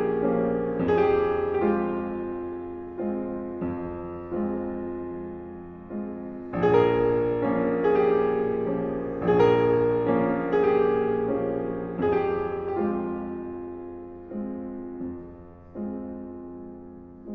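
Slow, gentle piano music: chords struck about once a second, each left to ring and fade.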